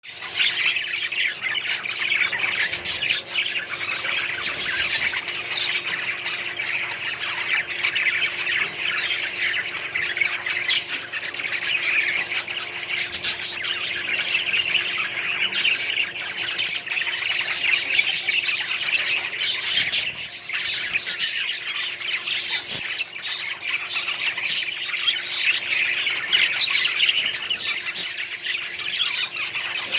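A small colony of budgerigars chattering continuously, many birds calling over one another, with a faint steady hum underneath.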